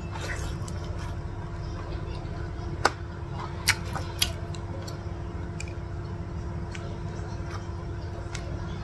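Close-miked chewing and mouth sounds of someone eating rice and chicken, with a few sharp wet clicks about three and four seconds in, over a steady low hum.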